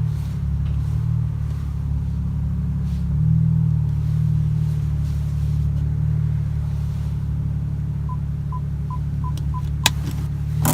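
BMW 335i turbocharged inline-six with its muffler deleted, running at a steady low drone, with a slight swell about three seconds in. Near the end there are a few faint ticks and a single sharp click.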